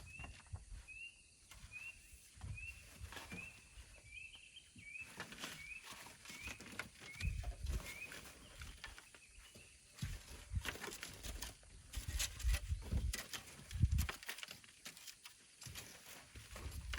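A short, high, rising chirp repeats about every two-thirds of a second for the first eight seconds or so. After that come scattered knocks and clicks with low thuds, the sounds of work being done by hand.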